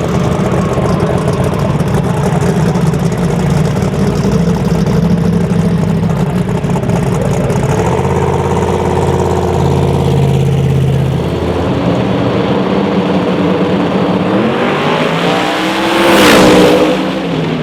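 Drag-race car engines running loudly, with several engine notes at once, and one car sweeping past close by about sixteen seconds in, its pitch rising then falling.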